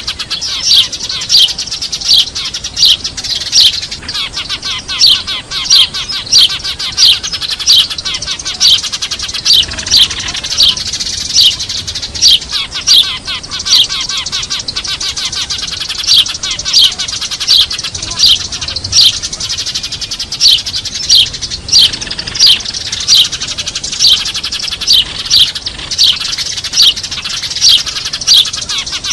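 A flock of Eurasian tree sparrows chirping noisily: loud, sharp chirps about three every two seconds over a constant busy chatter, the kind of recording played as a lure to call sparrows in.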